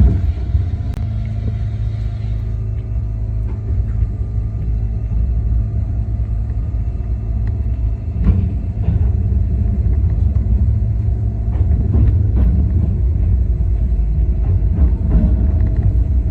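Running noise of a Yokkaichi Asunarou Railway 260 series narrow-gauge train heard from the cab: a steady low rumble with steady motor tones, and a few sharp clicks in the second half.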